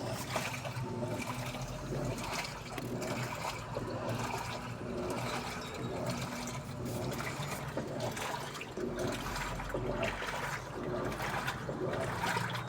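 Water rushing and splashing inside a Daewoo washing machine, steady throughout, over a low steady hum.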